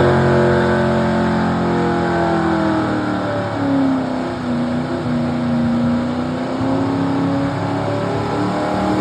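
Two-wheel-drive pickup truck's engine running hard under load while pulling a weight-transfer sled, its pitch sagging through the middle and climbing again near the end.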